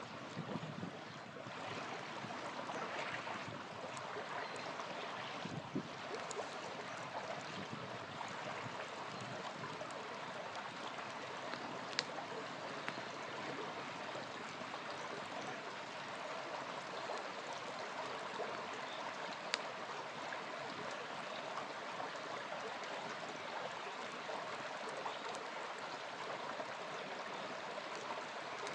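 Small river flowing steadily, with a campfire crackling and giving a couple of sharp pops, one about twelve seconds in and one near twenty seconds.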